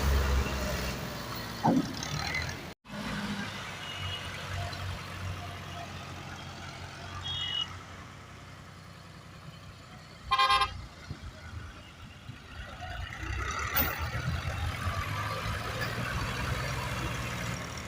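Tractor engines running with a steady low rumble, and one short horn toot about ten seconds in.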